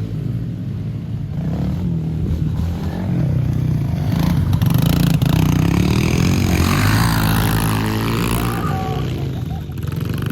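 Yamaha TT-R110 pit bikes' small single-cylinder four-stroke engines running, revving up and getting louder through the middle.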